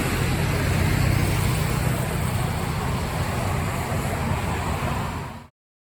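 Scania K270UB single-decker bus pulling away from a stop, its engine running steadily with road noise. The sound cuts off abruptly near the end.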